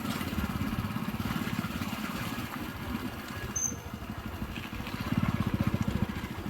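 A small engine running with a fast, even pulse that gets louder about five seconds in.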